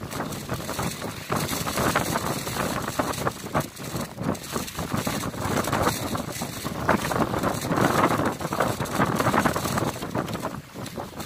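Strong wind buffeting the microphone in uneven gusts, a rough rushing noise that swells and drops every second or so.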